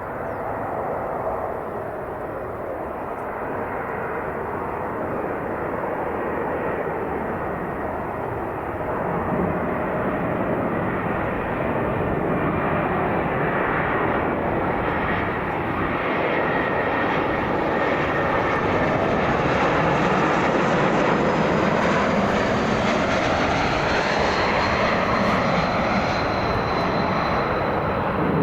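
Airbus A220's Pratt & Whitney PW1500G geared turbofan engines during a landing. A steady jet rumble grows louder as the aircraft nears and peaks about two-thirds of the way through. A thin high whine then falls slightly in pitch as the aircraft passes.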